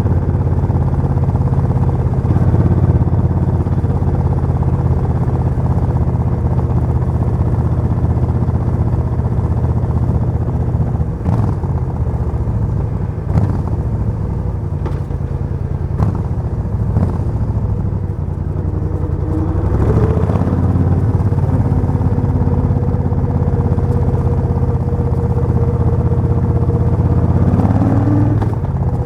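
Suzuki VS1400 Intruder's V-twin engine running steadily, its pitch rising briefly about twenty seconds in and again near the end, with a few faint clicks along the way.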